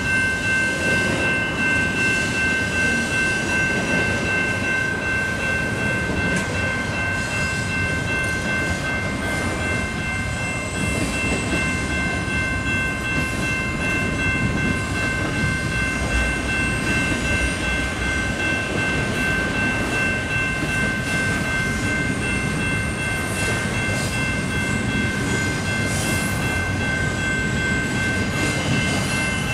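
Double-stack intermodal container well cars of a CPKC freight train rolling steadily past, a continuous rumble and clatter of wheels on rail. A steady high-pitched ringing tone runs over it.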